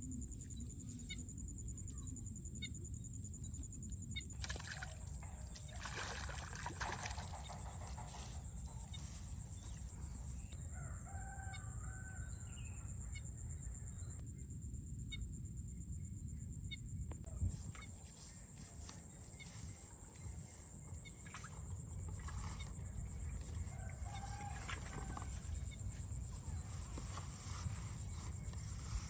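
A rooster crowing now and then, with some clucking, over a steady high insect drone and a low rumble.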